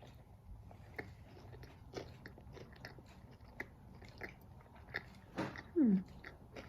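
Close-up chewing of a bite of falafel pita, with small irregular crunches and mouth clicks. Near the end a short falling hum, the loudest sound.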